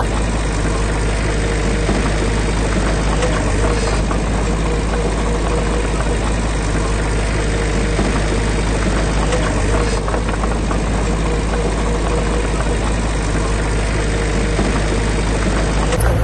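Heavy construction machine's diesel engine running steadily at a constant speed, with no revving.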